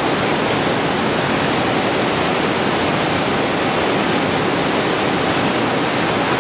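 Waterfall: water falling and splashing in a steady, dense rush with no breaks.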